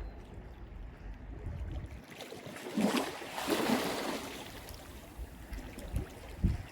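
Mediterranean sea waves on the shore: a wave washes in about three seconds in and fades. A low rumble comes before it, and two short low thumps come near the end.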